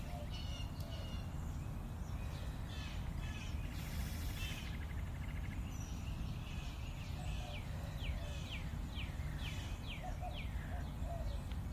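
Songbirds chirping over a steady low outdoor rumble, with a run of quick falling chirps in the second half.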